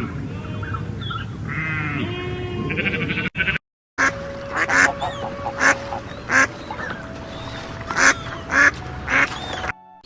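Animal calls in two clips split by a brief silence a little over three seconds in; the second clip holds a series of short, loud, harsh calls, about one every half second to second.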